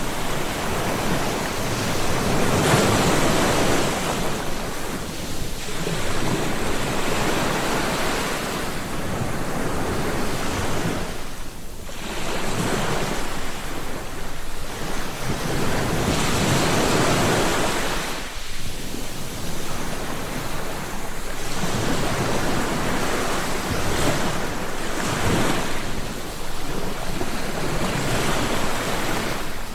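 Ocean waves breaking and washing onto the shore, the surf swelling and ebbing every few seconds.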